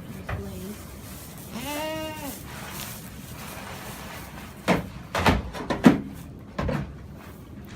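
A dairy goat bleats once, a short call that rises and then falls in pitch, about two seconds in. A few seconds later comes a quick cluster of sharp knocks and thumps.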